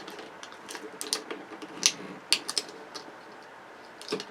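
Irregular clicks and light clatter of hand tools and loose parts being handled while taking a flat-screen television apart, with a few sharper snaps about two seconds in.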